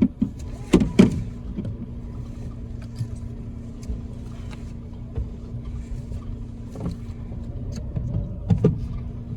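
Car running, heard from inside the cabin: a steady low rumble with a constant hum. Brief louder sounds break in about a second in and again near the end.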